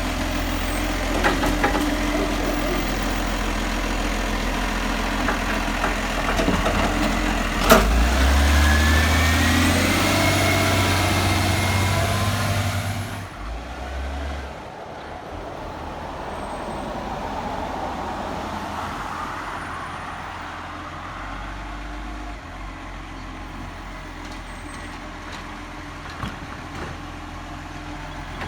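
Garbage truck engine running loud, revving up with a rising whine about a third of the way in, then dropping away sharply; afterwards a quieter vehicle sound swells and fades.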